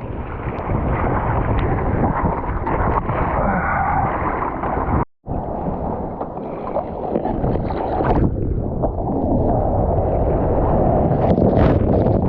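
Wind buffeting the microphone over the rush of surf and moving water, a loud, steady noise that breaks off for an instant about five seconds in.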